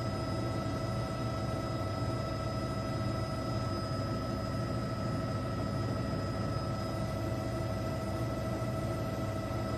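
Helicopter engine and rotor drone heard from inside the cabin: a steady low rumble with a constant high turbine whine over it.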